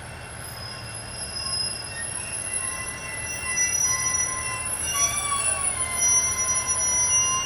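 KiHa 110 series diesel railcar pulling into a station and braking. Its engine rumbles low beneath high-pitched squealing from the wheels, and the sound grows louder as the train draws close.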